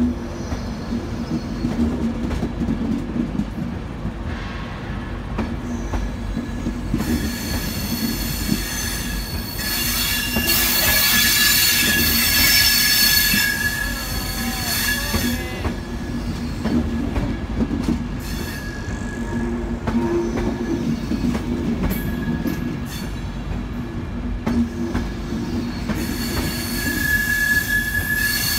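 LNER express passenger coaches rolling past along a platform with a steady low rumble of wheels on rail. A high-pitched wheel squeal rises about a quarter of the way in, holds for several seconds, fades, and returns near the end.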